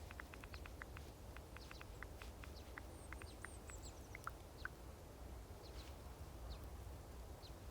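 Faint crackling of a wood fire, many irregular quick clicks and pops over a steady low rumble, with a brief run of faint high chirps about three seconds in.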